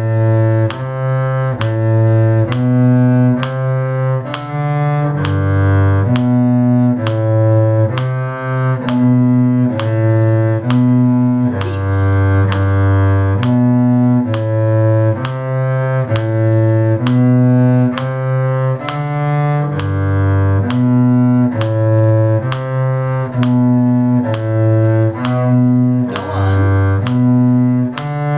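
Cello bowing the bass line of a lively tune in 6/8, a steady run of low notes that change about every half second. A faint steady click, about two a second, keeps the beat.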